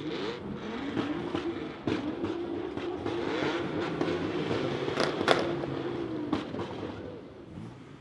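Car engine revved up and held at high revs for several seconds, its pitch wavering slightly, then dropping off near the end, with a few sharp cracks along the way, the loudest about five seconds in.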